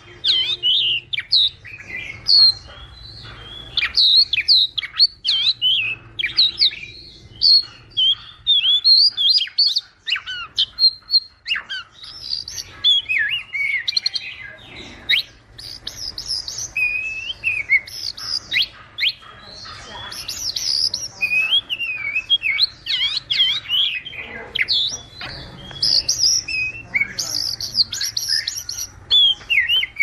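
Songbird chorus: a dense run of quick, high chirps and short whistled notes from several birds, overlapping at different pitches.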